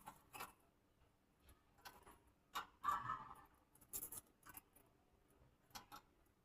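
Faint, scattered clicks and scratches of small birds moving about a cage, with a brief louder rustle about three seconds in.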